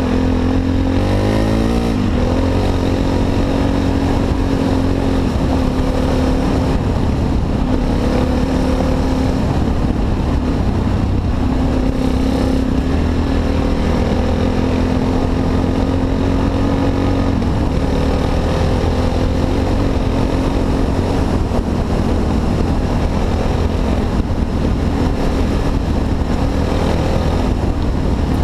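Honda XR250 Tornado's single-cylinder four-stroke engine running as the bike is ridden, loud and continuous. The pitch climbs in the first couple of seconds, then holds fairly steady with small rises and dips as the throttle is worked.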